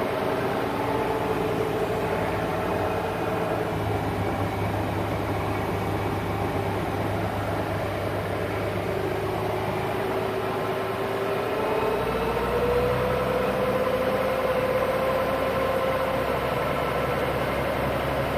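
Case 5240 tractor's diesel engine running steadily, heard from inside the cab; about two-thirds of the way through its pitch rises a little and it grows slightly louder.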